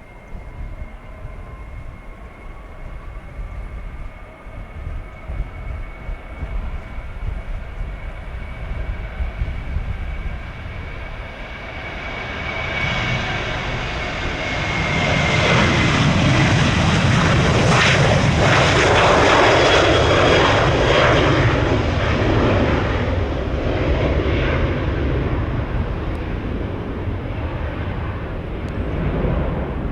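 Jet airliner passing close by: engine noise builds to its loudest about two-thirds of the way through, its whine dropping in pitch as the aircraft goes past, then slowly fades. Low wind rumble on the microphone underneath.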